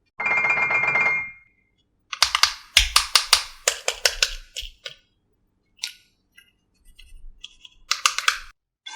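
A short buzzing tone lasting about a second, then bursts of rapid clicking and clattering, with a final burst of clicks near the end.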